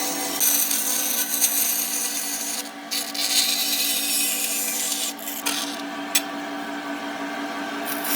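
A power tool's motor running steadily while it works wood, with a rubbing, abrasive noise over the motor tone that comes and goes as the tool bears on and eases off the wood.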